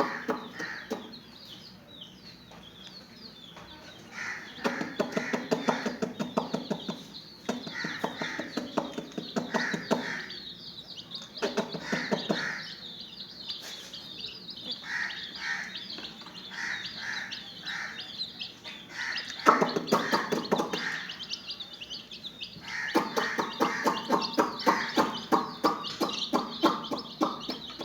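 Chickens: chicks cheeping constantly and high, with a hen clucking in quick rapid bursts several times.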